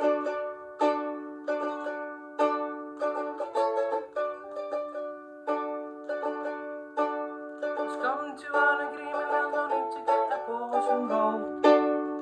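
Ukulele strummed in a steady rhythm, chords struck about every three-quarters of a second, with short picked runs of single notes between them.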